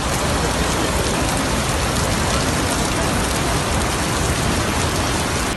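Heavy rain pouring steadily onto hard surfaces, a dense, even hiss that starts and stops abruptly.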